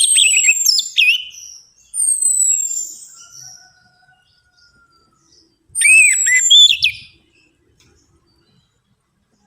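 Orange-headed thrush (anis merah) singing in short phrases of rapid whistled notes mixed with long, high, falling whistles. There are three bursts, at the start, about two seconds in and about six seconds in, with pauses between.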